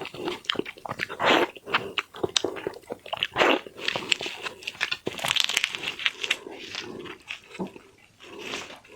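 Close-miked eating of raw, partly frozen shrimp: wet chewing, lip smacking and slurping with irregular sharp clicks, a few louder bites along the way.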